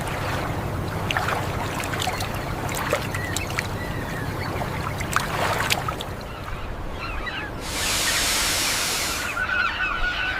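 A steady low rumble with scattered knocks, a hiss of about a second and a half around eight seconds in, and geese honking near the end.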